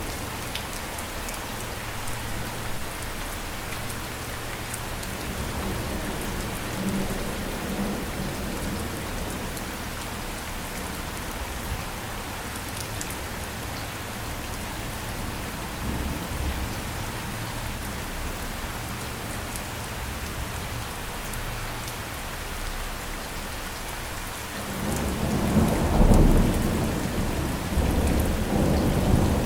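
Steady heavy rain hissing on surfaces, with a low rolling rumble of thunder that swells about 25 seconds in and stays up to the end.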